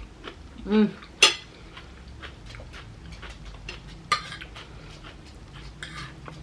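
Close-up sounds of eating crunchy food: sharp crackles and clicks of biting and chewing toasted bread and celery, scattered through, with the loudest snap about a second in, just after a brief 'mm'.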